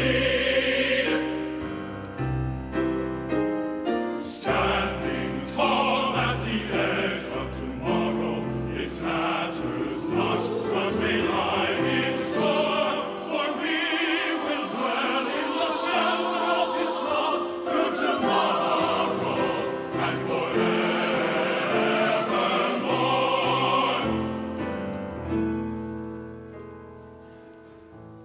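Choir singing with orchestra, the music full and sustained, then dying away over the last few seconds.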